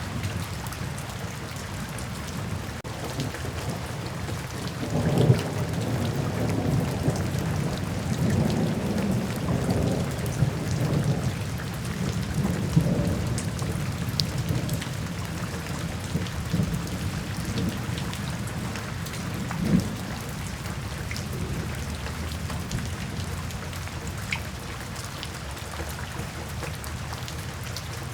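Steady rain falling, with rolling thunder rumbling low from about five seconds in and fading after about fourteen seconds, then one shorter clap of thunder near twenty seconds.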